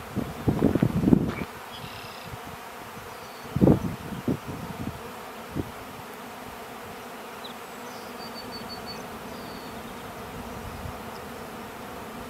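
Honey bee swarm buzzing as a steady hum, disturbed after being brushed from its branch into a box. A few dull low knocks come in the first five seconds.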